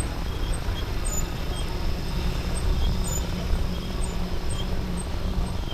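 Riding noise from an e-bike on the move: wind buffeting the bike-mounted camera's microphone and tyre rumble on the pavement, a steady low rumble. Faint, high, short ticks come at irregular intervals over it.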